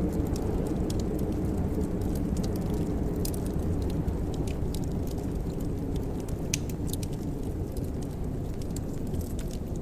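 Fireplace fire burning with a steady low rumble and scattered sharp crackles and pops.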